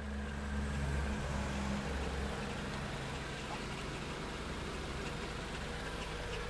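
2010 Renault Mégane RS's 2.0-litre turbocharged four-cylinder idling with a steady low exhaust drone, a little fuller for the first two seconds and then settling.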